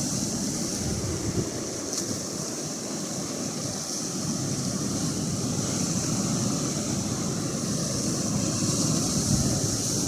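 Atlantic Ocean surf washing steadily, with wind buffeting the microphone.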